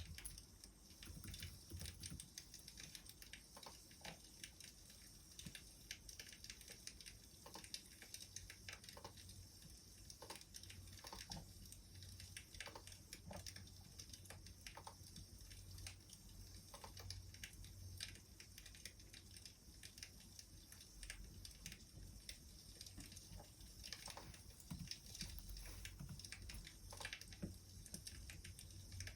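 Wood fire crackling quietly: irregular small pops and snaps over a soft hiss.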